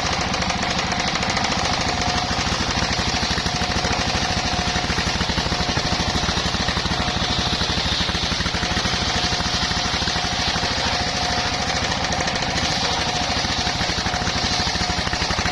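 Engine-driven mobile circular sawmill running steadily: the engine chugs with rapid, even firing under a steady high tone and a hiss.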